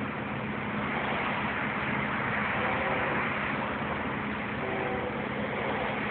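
Loaded coal train: a steady rumble with a constant low hum from the diesel locomotive engines, and a few faint brief squealing tones from the wheels midway and near the end.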